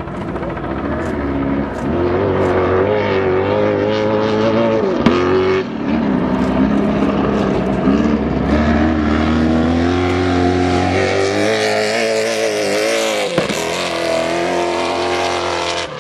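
Stadium Super Truck V8 engines racing at full throttle, their pitch climbing and falling again and again as the trucks accelerate and lift. There is a sharp brief drop about thirteen seconds in.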